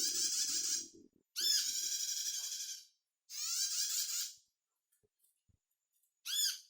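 Sunbird song played as a lure: four high, rapid trilling phrases about a second each with short gaps, the last one brief. A faint lower sound runs under the first second.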